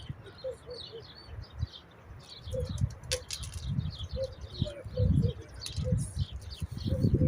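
Birds chirping, with short low calls repeating every second or so, and a few low muffled thumps, the loudest about five seconds in.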